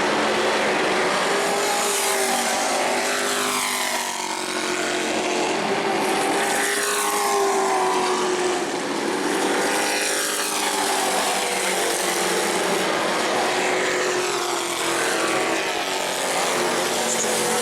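Pro Truck racing trucks running at speed around a short asphalt oval. Engines pass in turn, each one's pitch dropping as it goes by, over a continuous loud drone of the field.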